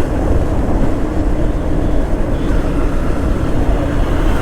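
Motorcycle running on the road, its steady engine note under heavy wind rumble on the microphone.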